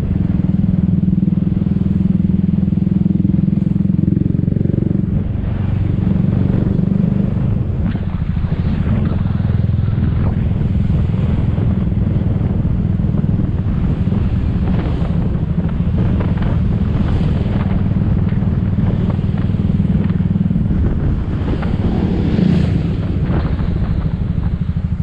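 Motor scooter running on the move, with a heavy low wind rumble on the microphone. A steady engine hum in the mix fades about five seconds in.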